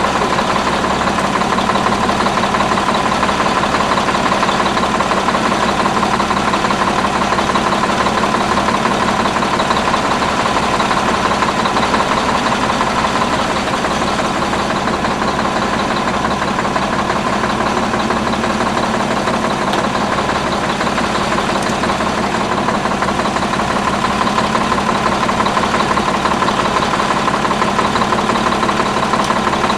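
Detroit Diesel 6V92 two-stroke V6 diesel idling steadily, with a constant high whine over the engine note, running after its first start-up.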